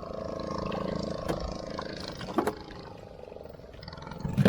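Fishing boat's engine running steadily, with a few sharp knocks on deck about a second in, midway and at the end.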